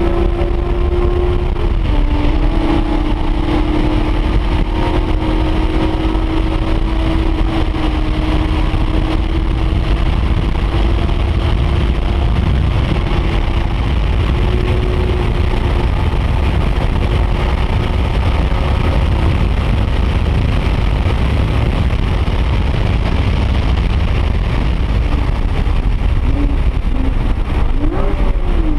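Porsche 911 GT3 RS flat-six engine heard from inside the cabin, held at a steady high pitch at speed over heavy wind and road rumble. Its pitch dips slightly about two seconds in, and near the end it gives a few quick rising blips as the car slows for a corner.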